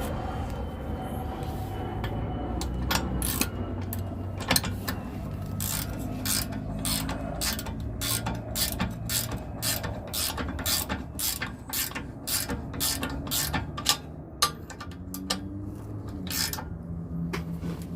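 Hand ratchet wrench clicking in quick strokes, about two to three clicks a second, as a rear shock mounting bolt on a Harley-Davidson is tightened.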